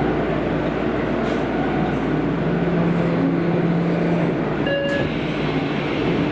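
Kobe Municipal Subway 5000-series linear-motor train running, heard from inside the car: a steady rumble of wheels and running noise as it nears a station. A low hum holds through the middle, and a single sharp click comes near the end.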